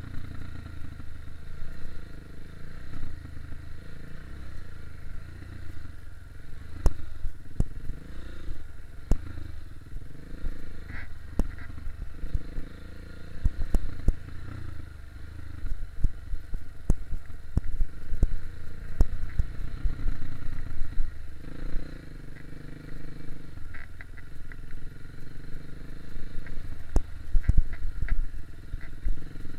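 Dirt bike engine running on a rough trail, its pitch rising and falling as the throttle is worked, with frequent sharp knocks and clatter from the bike going over rocky ground.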